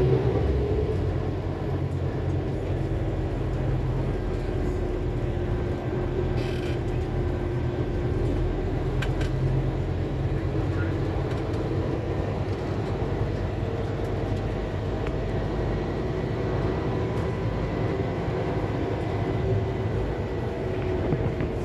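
Interior of a Scania K280UB4 diesel city bus under way: steady engine and road rumble with a drivetrain whine that slowly rises and falls in pitch as the bus changes speed. There are a couple of faint rattles or clicks about a third of the way in.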